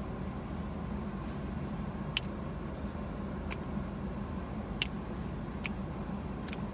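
Steady car cabin noise while driving in the rain: a low, even rumble with a faint hum. About five short sharp ticks come a second or so apart from about two seconds in.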